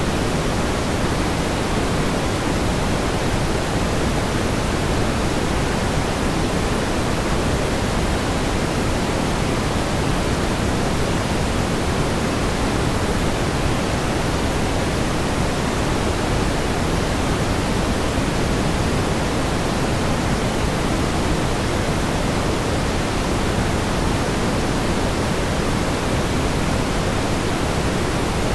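Steady pink noise: an even, unchanging hiss, fuller in the low end than in the highs.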